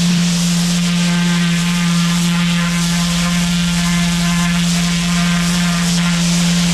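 Pressure washer running steadily: a constant low hum from the machine under the hiss of high-pressure water spraying onto concrete slabs.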